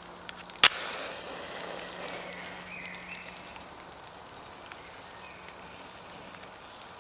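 A hunting (storm) match struck once, with a sharp crack, then burning with a hiss that fades over the next couple of seconds.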